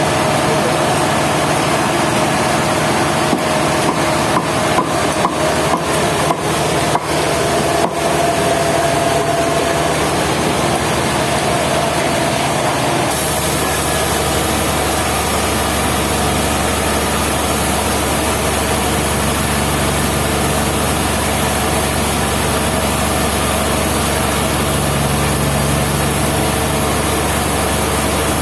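Sawmill running and sawing through wood, a steady loud machine noise. A run of sharp knocks and clicks comes a few seconds in, and about thirteen seconds in the sound changes abruptly to an even, steady machine noise.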